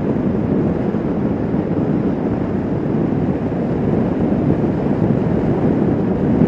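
Wind rushing over a riding motorcyclist's microphone, steady, with the motorcycle's engine and road noise running underneath at an even cruising speed.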